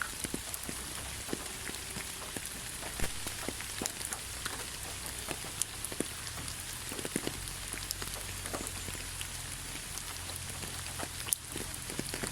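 Steady rain falling, an even hiss with many separate drops pattering and ticking on a surface.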